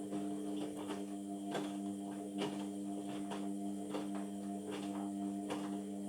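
Indesit washing machine running in the early wash phase of a 60 °C cotton cycle: a steady hum with irregular knocks and splashes from the load in the drum.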